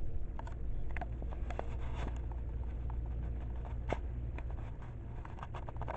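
Skid steer engine running steadily at idle, a low drone, with scattered light clicks and rattles over it.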